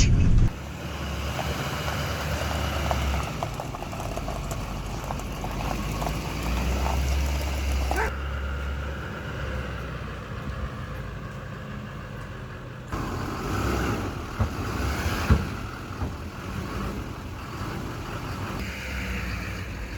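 A heavy truck moving slowly along a road, with a steady low rumble and road noise. The sound changes abruptly a few times, with a couple of knocks about three-quarters of the way through.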